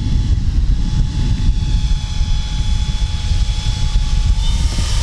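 Electric motor and propeller of a large RC Pilatus PC-6 model plane in flight, a faint steady whine over a loud low rumble.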